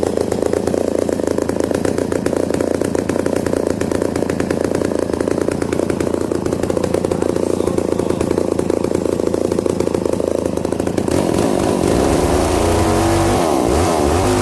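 Vintage two-stroke chainsaw engine running steadily. About eleven seconds in the sound changes, getting heavier with a wavering pitch.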